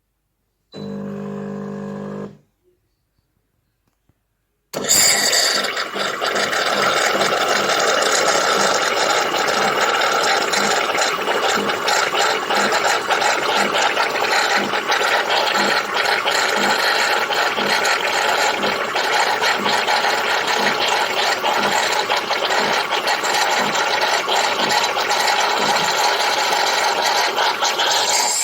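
Klarstein 20-bar espresso machine running: a brief steady buzz, then from about five seconds in a loud, steady hissing noise with a faint regular low pulse.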